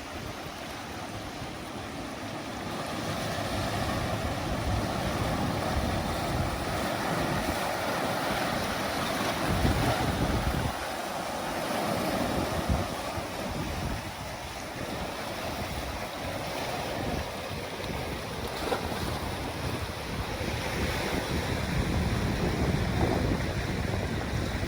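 Ocean surf: a continuous wash of waves that swells and eases, with low wind rumble on the microphone.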